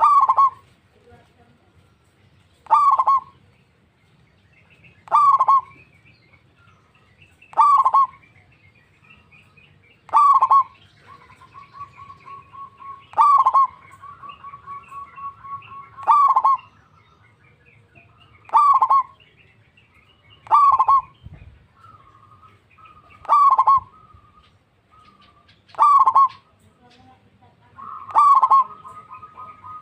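Zebra dove (perkutut) calling: a loud, short call repeated at an even pace about every two and a half seconds, twelve times. Softer, quick runs of notes fill the gaps around the middle and again near the end.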